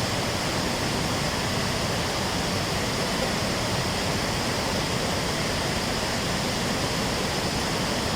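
The Ban Gioc waterfall, a large waterfall, pouring heavily close by: a steady, even rush of falling water with no breaks.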